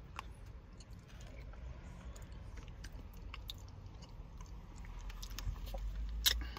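A person chewing a soft mouthful of binignit (tapioca pearls, banana and sweet potato), with scattered small clicks from a plastic fork against a plastic cup, a sharper click near the end.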